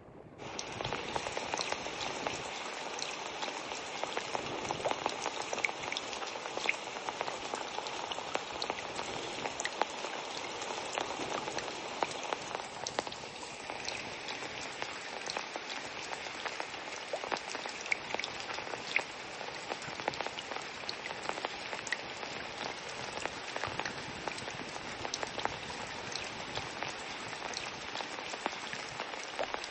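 Steady patter of water drops, a dense hiss full of small ticks, starting suddenly just after the start. A faint thin high tone runs through roughly the first half.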